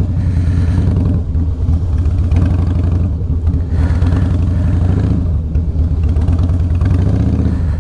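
Harley-Davidson V-twin motorcycle engine running at low revs while the bike is ridden slowly, with small swells and dips as the throttle is worked.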